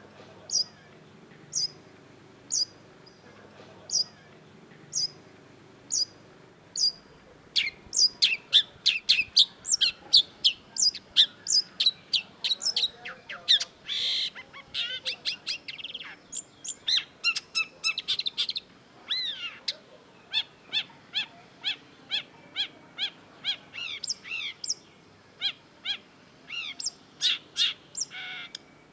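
Long-tailed shrike singing: short, sharp high notes about once a second at first, then from about eight seconds in a fast, dense run of varied chirps and down-slurred notes.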